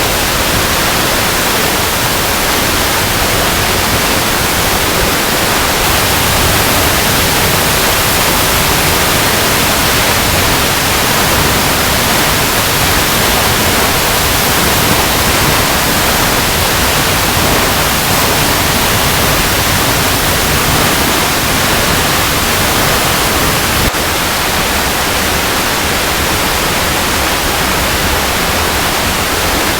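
Waterfall cascading over rocks: a steady, even rush of falling water with no breaks.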